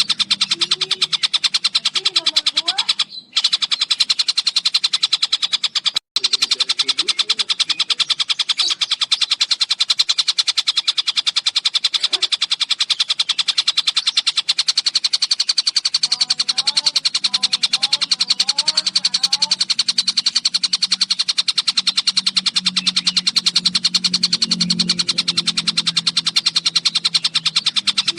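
Tengkek buto kingfisher calling in a fast, continuous rattling chatter, with brief breaks about three and six seconds in.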